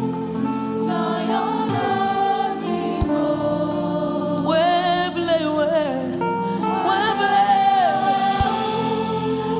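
Gospel praise-and-worship song: voices singing long, wavering lines over held instrumental chords, with a couple of soft low drum hits.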